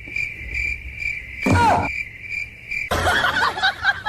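Insect chirping: a steady high trill of even pulses, about four a second, with one short louder sound falling in pitch about a second and a half in. The trill stops abruptly about three seconds in and gives way to a busier jumble of sounds.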